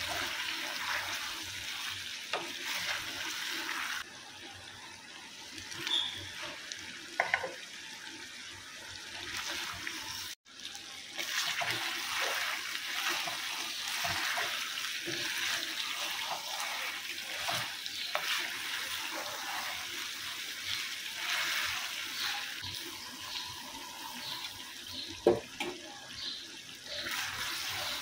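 Potatoes and chicken sizzling in hot oil and masala in a clay handi: a steady hiss, with a wooden spoon stirring and knocking against the pot a couple of times.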